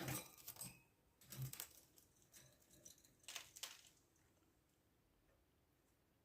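Faint clicks, rattles and light knocks for about four seconds, then near silence.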